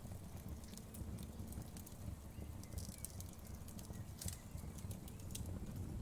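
Wood fire crackling: a steady low rumble of flame with scattered sharp pops and snaps.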